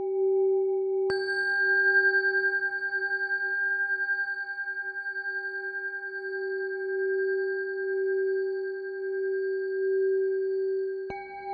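Tibetan singing bowls tuned to G ringing with a steady low tone that slowly pulses. A bowl is struck about a second in, adding bright higher overtones, and struck again near the end.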